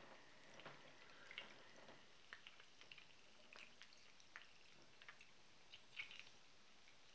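Breaded chicken cutlets frying in oil in a pan: faint, irregular crackles and pops of sizzling oil.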